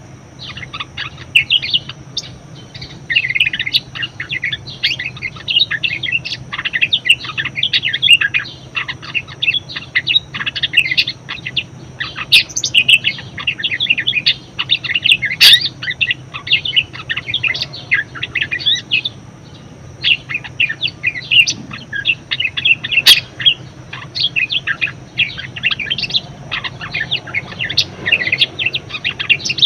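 Budgerigar singing: a fast, continuous chattering warble of chirps and squeaks, broken by a couple of brief pauses.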